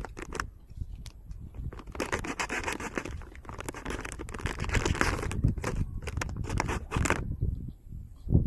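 Rustling and scraping of something being handled, with many small clicks, busiest from about two seconds in until near the end.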